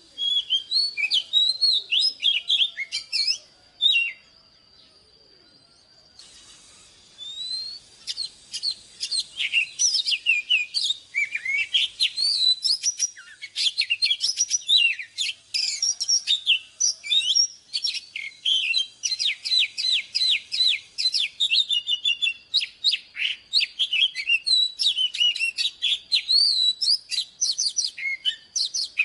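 Oriental magpie-robin singing a rapid, varied song of whistled notes and chirps. It breaks off about four seconds in and resumes about three seconds later, then goes on densely.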